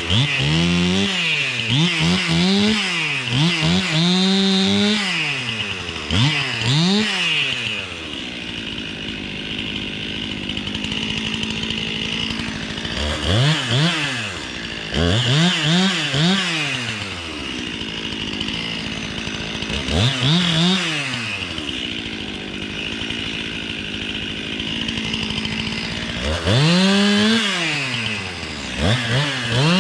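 Stihl MS 261 two-stroke chainsaw trimming branches, revving up in short bursts again and again and dropping back to a steady idle between the clusters of cuts.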